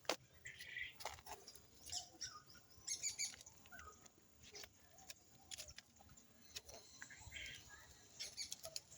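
Faint, scattered bird chirps and short calls from caged birds, with a few sharp clicks in between.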